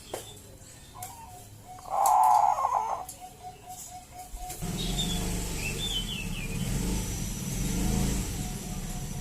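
Zebra dove (perkutut) cooing: one loud coo about two seconds in, followed by a quick run of evenly spaced short notes. From about halfway a steady low rumble joins, with further faint coos and a small bird chirping over it.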